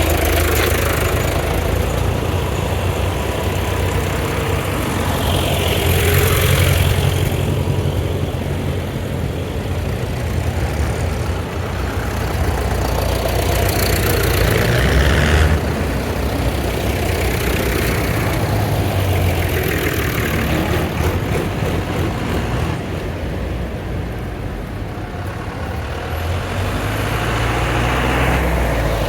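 Vintage tractor engines running with a steady low note as the tractors move off one after another, with a swell of noise every few seconds.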